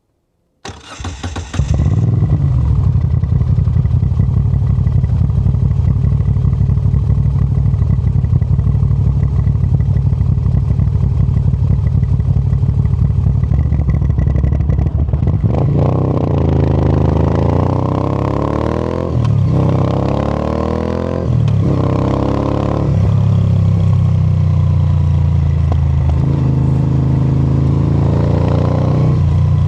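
Motorcycle engine starting about a second in, then running steadily and loud. From about halfway the pitch rises and falls with a few brief dips, as the engine is revved or ridden through the gears.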